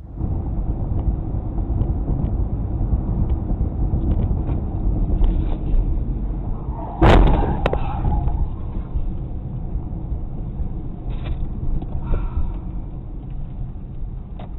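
Low, steady road and engine rumble of a moving vehicle picked up by a dashcam microphone, with one sharp, loud thump about seven seconds in.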